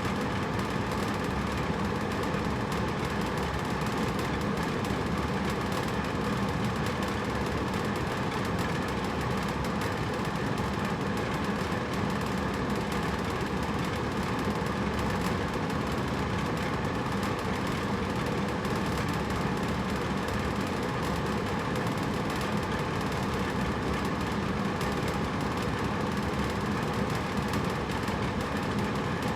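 Hotel room air conditioner running steadily: a constant rush of air with a faint low hum.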